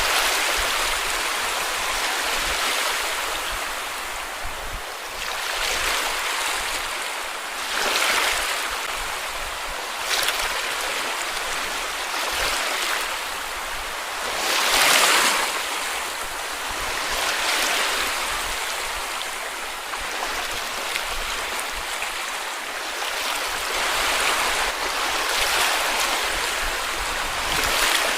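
Sea waves breaking and washing up on a beach: a steady hiss that swells with each wave every few seconds, the biggest about halfway through.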